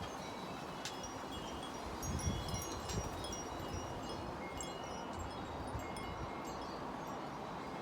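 Wind blowing in gusts, with many short, high ringing tinkles scattered throughout and a couple of sharp clicks.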